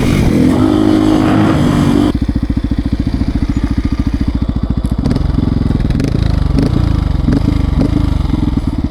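Beta RR 125 R supermoto's single-cylinder engine held at high revs, then dropping about two seconds in to a lumpy, pulsing idle with a few light blips of the throttle.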